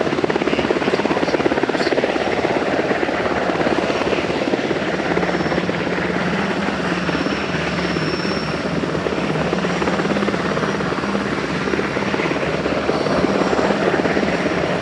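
US Coast Guard MH-60T Jayhawk helicopter running loud and steady at close range: a rapid, continuous rotor-blade chop with a low drone that strengthens through the middle.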